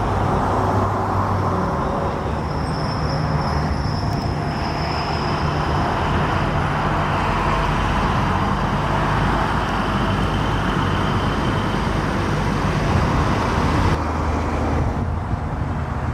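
Car engines running steadily, with a constant low hum and road-traffic noise.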